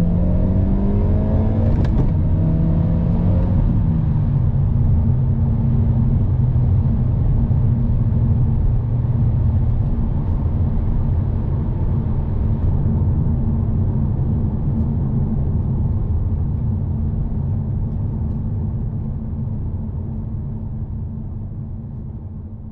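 2022 Hyundai i30 Sedan N's 2.0-litre turbo four-cylinder revving up briefly, a sharp crack about two seconds in as the revs drop, then running at steady revs over an even low rumble that slowly fades.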